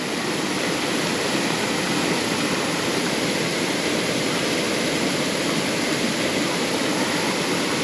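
Steady rushing of flowing water, an even hiss at a constant level.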